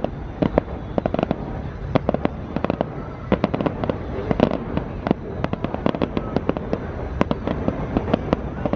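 Fireworks display going off: a rapid, irregular run of sharp bangs and pops, several a second, over a continuous low rumble of the barrage.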